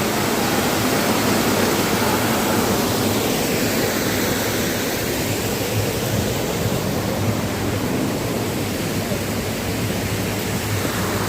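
Steady rush of the Trillium Falls waterfall, water falling continuously.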